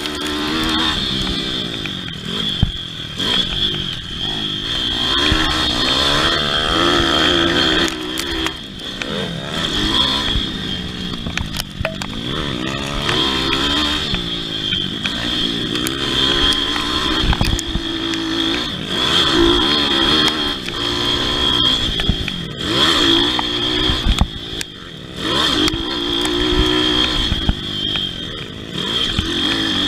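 Pit bike engine racing, its revs repeatedly rising and falling every second or two as it accelerates and shifts around the motocross track.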